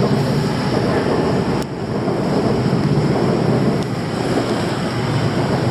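Dense, steady city street noise dominated by traffic rumble, with a brief dip and click about one and a half seconds in.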